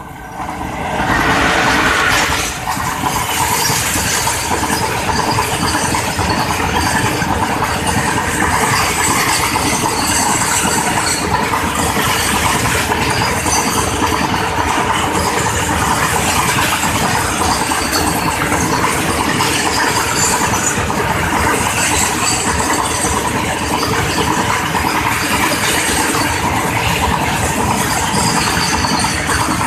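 Twin WAG-5 electric locomotives of a freight train passing close by, getting loud in the first two seconds, then a long rake of covered wagons rolling past at speed: a steady rumble and clatter of wheels on rail.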